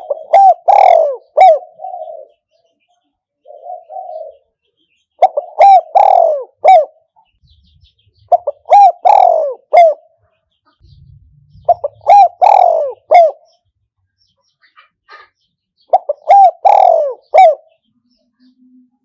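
Spotted dove cooing, a decoy bird calling to lure wild doves: five loud phrases spaced about every three to four seconds, each a short run of coos, with a softer murmured call between the first two.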